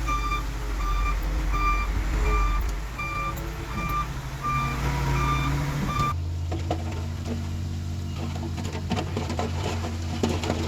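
Heavy equipment's backup alarm beeping about twice a second over a diesel engine running. The beeping cuts off abruptly about six seconds in, leaving a steady engine drone with scattered clanks and scraping.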